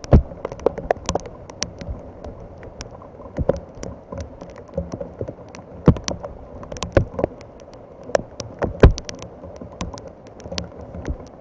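Irregular taps and knocks of raindrops striking the camera and its microphone, a few of them sharp and loud, over a steady background of falling rain.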